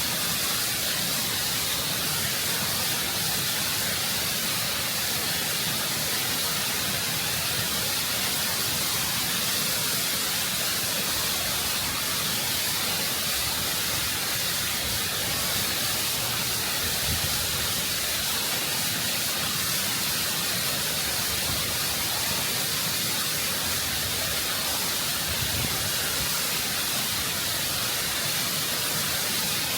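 Waterfall water rushing and cascading over rock, heard close up: a constant, full hiss with no change in level, strongest in the high range.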